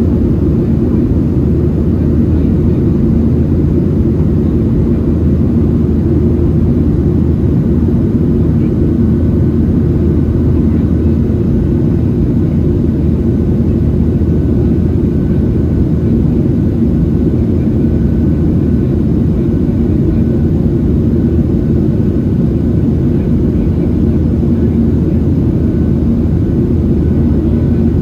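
Cabin noise inside a Boeing 737-700 heard from a window seat: a steady, loud drone of its CFM56-7B jet engines and the airflow past the fuselage, with a constant low hum.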